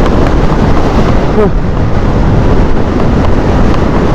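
Wind buffeting the microphone of a motorbike rider at speed, a loud steady rumble with the bike's engine and road noise underneath.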